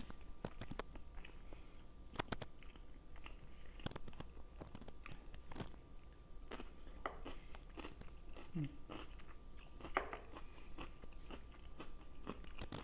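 Close-miked chewing of egusi stew with seafood and sweet potato: a steady run of wet mouth clicks, smacks and bites.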